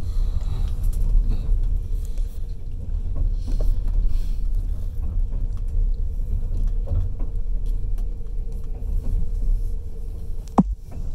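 Passenger train running along the track, heard from inside the carriage: a steady low rumble with a faint hum and scattered light clicks. About ten and a half seconds in, a short sharp squeak falls quickly in pitch.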